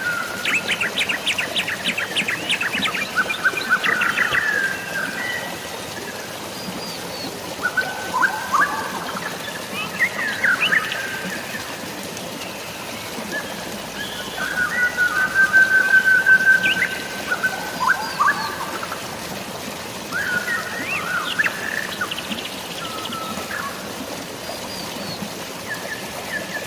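Several birds chirping and trilling over a steady hiss of rain and running water, with a fast run of rapid notes near the start and a long, steady whistled note about halfway through.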